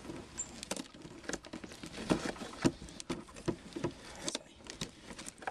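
Irregular taps, knocks and scratches of hands working at a cardboard box to open it.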